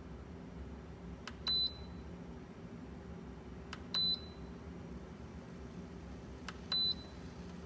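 Brightown electric kettle beeping three times, about two and a half seconds apart. Each time there is a sharp click, then a short high beep.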